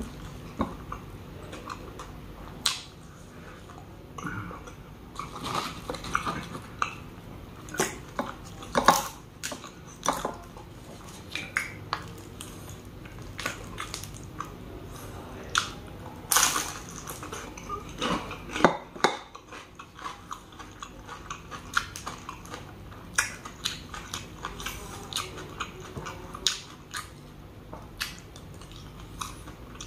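Close-miked mukbang eating: a man chewing and biting into fried-dry mutton adobo with rice, with irregular wet mouth smacks and sharp clicks, and now and then a glass dish being handled.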